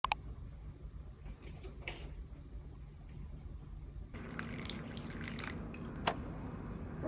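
Water running and dripping in a kitchen sink, with a couple of sharp clicks.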